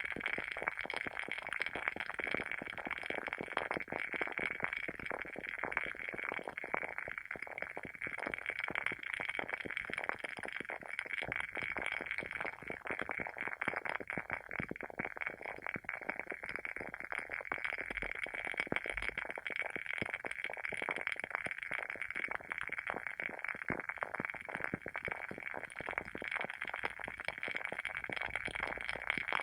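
Wooden wick of a WoodWick candle burning with a continuous, irregular crackle, dense little pops over a soft steady hiss, like a small fire.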